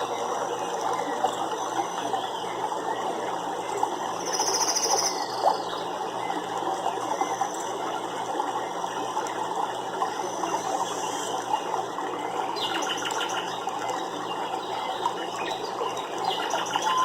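Nature ambience: a steady, dense crackling texture of many small ticks and trickles, with scattered animal calls. A short high trill comes about four seconds in, and a rapid rattling trill about three quarters of the way through.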